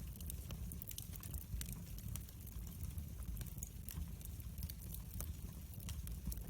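Wood fire burning in a fireplace: a steady low rumble of flames with frequent small crackles and pops scattered irregularly throughout.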